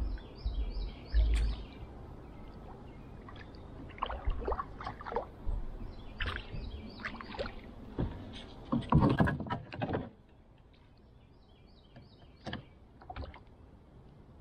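Knocks, rustles and water splashes around a kayak, loudest about nine seconds in, then quieter. A bird sings a short repeated chirping phrase at the start and again near the end.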